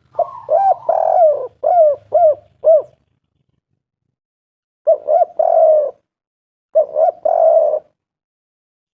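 Spotted dove (tekukur) cooing: a run of about six short, arched coos, then after a pause two phrases of two quick notes and a longer drawn-out coo.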